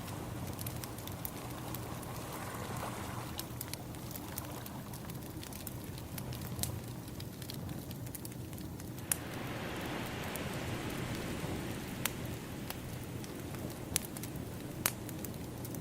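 Wood fire crackling, with sharp pops now and then over a steady hiss, and ocean waves washing in behind it. A wave swells up about nine seconds in.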